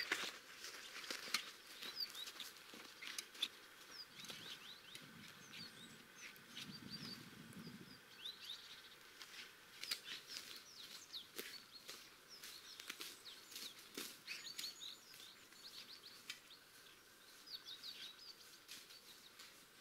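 Small forest birds chirping, many short high calls repeated throughout, with scattered faint clicks. A faint low hum comes in for a few seconds in the middle.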